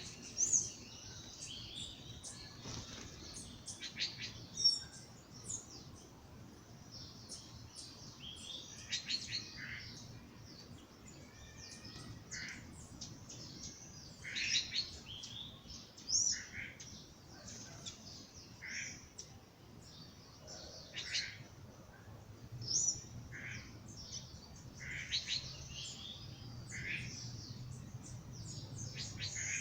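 Songbirds chirping and singing in a dawn chorus: a steady run of short, high chirps and brief trills from several birds, one or two every second.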